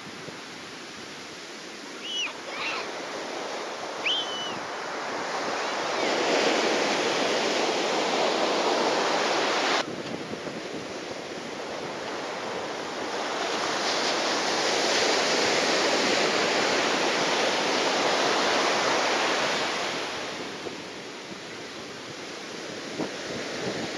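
Rough surf washing and breaking with strong wind buffeting the microphone. The rush swells and eases in long surges, with a sudden drop in level about ten seconds in. Two short high chirps sound a few seconds in.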